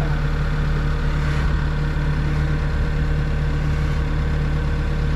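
Bobcat E60 mini excavator's diesel engine running steadily with a constant low hum.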